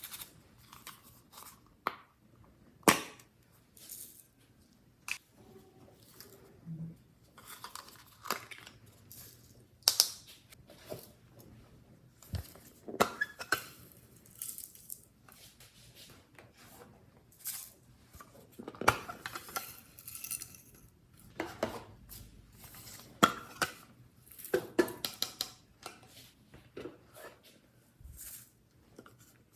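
Slime being handled and mixed: irregular sharp clicks and short crackling sounds, often a second or so apart.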